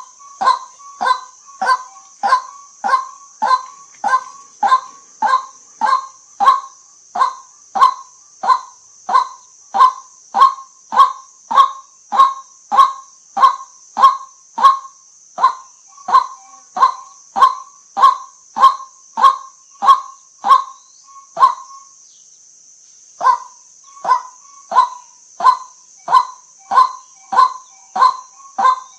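White-breasted waterhen calling: a short, loud, honking 'kwak' note repeated in a steady series, about one and a half a second. The series breaks off for a second or two about three-quarters of the way through, then resumes at the same pace.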